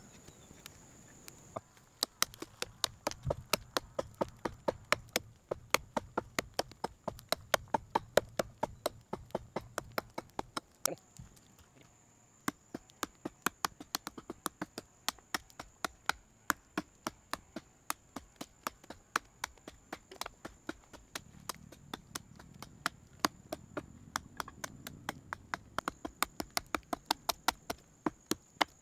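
Rapid, regular sharp knocks, about three a second, with a short pause about halfway through; a faint steady high tone runs behind them.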